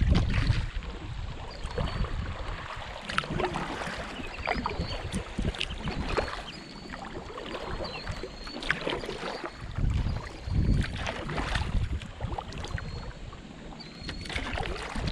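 Kayak paddles dipping and splashing in shallow river water in irregular strokes, with wind buffeting the microphone in gusts, strongest right at the start and again about ten seconds in.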